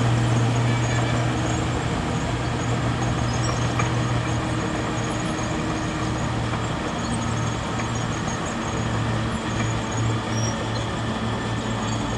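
Bulldozer's diesel engine running steadily, its low hum wavering and pulsing unevenly in the second half.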